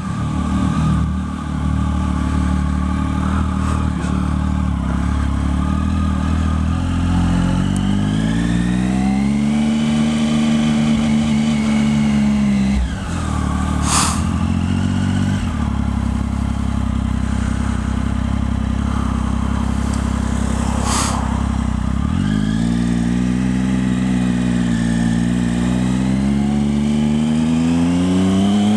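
Triumph Speed Triple's three-cylinder engine running as the motorcycle pulls away and rides on. Its pitch rises in long climbs under throttle and drops at a shift about halfway through. Two brief sharp noises come about seven seconds apart in the middle.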